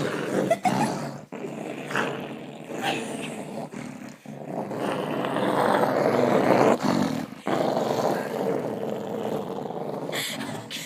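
Dog growling in long, rough, continuous stretches with a few short breaks, a sign of a dog upset at being bathed.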